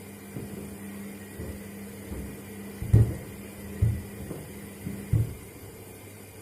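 Washing machine drum turning under a steady motor hum, with shoes tumbling inside and knocking against the drum: a series of dull thumps, the loudest three about three, four and five seconds in. The hum stops about five and a half seconds in.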